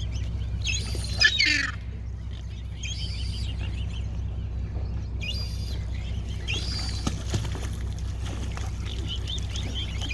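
Birds calling in short bursts every couple of seconds, over a steady low hum.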